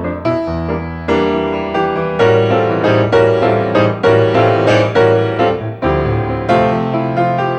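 Solo grand piano playing an instrumental passage of the ballad, with struck chords and melody notes that ring and decay; a low bass note holds under much of it.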